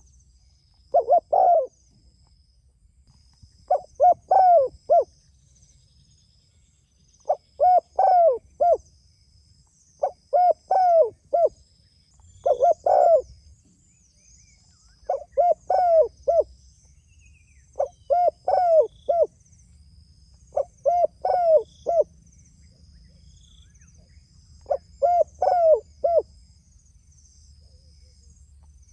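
Spotted dove (tekukur) cooing: short phrases of three or four low coos, repeated about nine times a few seconds apart. Faint high chirping runs behind.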